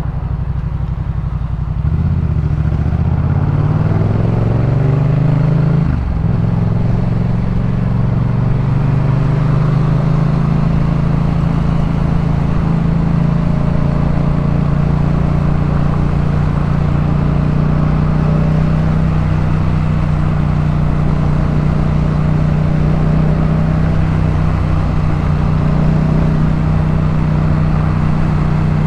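Yamaha MT-07's parallel-twin engine through a Jeskap K4 full aftermarket exhaust, heard while riding. The engine revs up for a few seconds, the pitch drops suddenly at a gear change about six seconds in, and it then runs at a steady speed.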